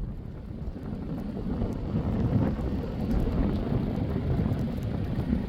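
Wind buffeting the microphone: a steady, gusty low rumble that grows louder about a second and a half in.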